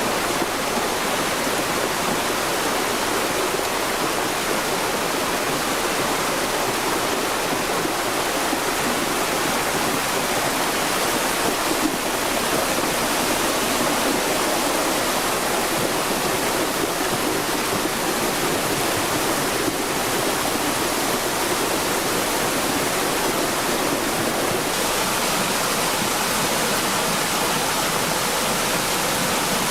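Flash-flood torrent of rainwater rushing steadily, a continuous loud rush of water.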